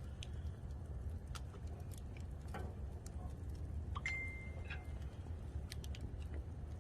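Wood fire crackling: scattered sharp pops and snaps over a steady low rumble, with a brief high whistle lasting about a second just past the middle.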